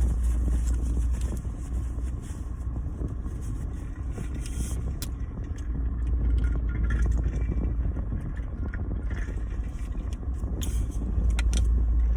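Steady low rumble inside a parked car's cabin, with a few scattered small clicks and rustles.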